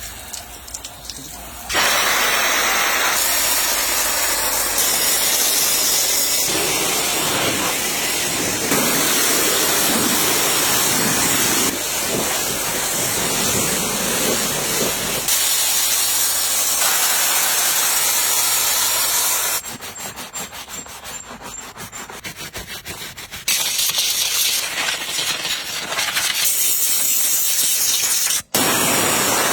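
High-pressure water spraying hard against a car at a car wash, a loud steady hiss that changes level abruptly several times, with a quieter stretch past the middle.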